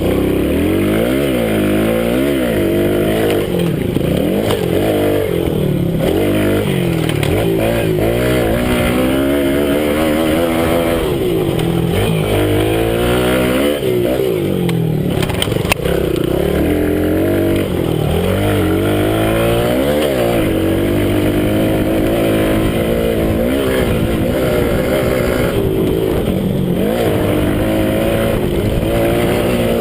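Minibike engine heard onboard at close range, revving hard and easing off over and over as the rider works the throttle around a motocross track. The engine note climbs and drops every second or two.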